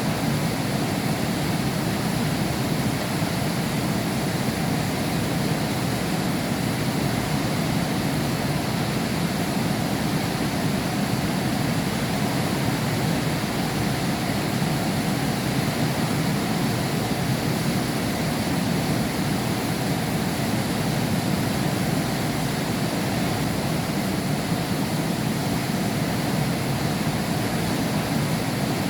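Heavy rain heard from behind window glass: a steady, dense rush with its weight low down.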